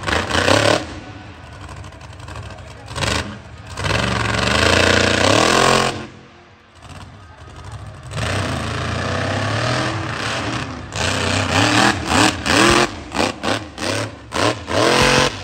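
Monster truck engine revving hard in repeated throttle bursts, its pitch climbing and falling. It eases off briefly around six seconds in, then comes back in a string of short, sharp blips near the end.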